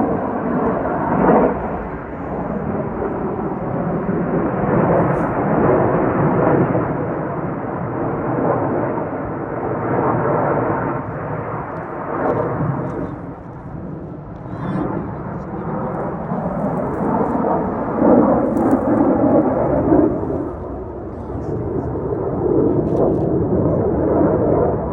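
Several cars driving off together, their engines running in a loud, rumbling, rising-and-falling mix, with people talking over it.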